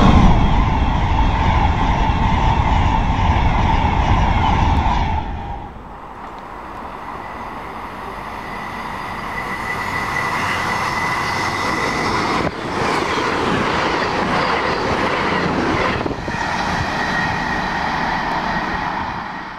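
Class 390 Pendolino electric express train rushing close past at speed: a loud rumble with a steady whine, cutting off about five seconds in. Then a string of short clips of other express trains approaching and passing at speed, their noise building up, with a thin high whine in places.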